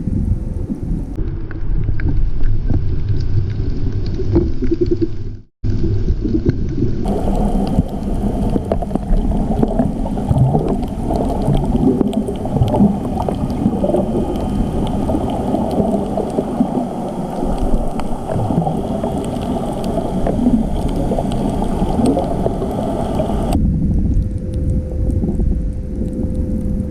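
Muffled underwater rumble and gurgling of water and air bubbles, as a camera in the sea hears it. There is a brief dropout about five and a half seconds in.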